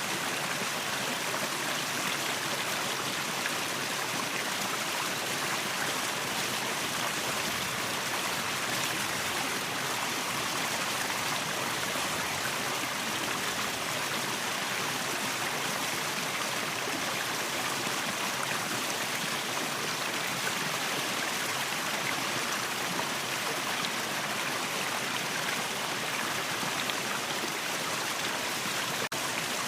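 Waterfall: steady rushing and splashing of falling water, a constant even hiss with little deep rumble.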